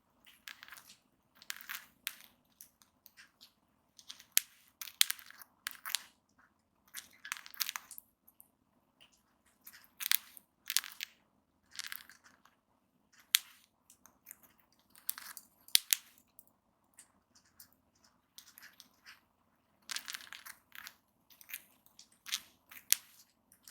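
Cockatiels grinding their beaks: irregular runs of short, dry, scratchy grating sounds. Beak grinding is a sign of a contented, relaxed bird, often settling down to rest.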